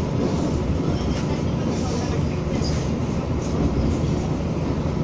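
Materfer diesel railcar running steadily along the track, heard from on board: a continuous engine drone under wheel-and-rail noise.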